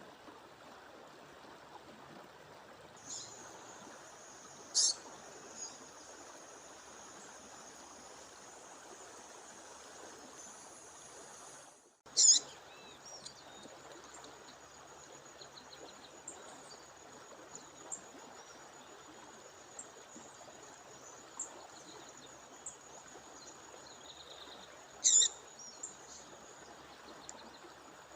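Short, sharp high-pitched bird calls over the steady rush of a stream, with a thin high trill held in the background; the loudest calls come about 5 s, 12 s and 25 s in, and the sound cuts out for a moment just before the middle call.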